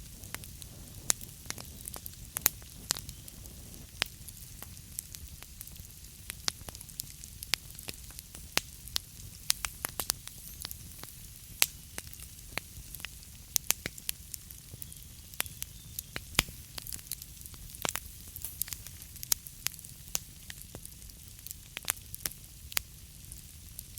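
Wood fire burning in a fireplace, its logs crackling and popping in sharp, irregular snaps over a steady low rumble and hiss.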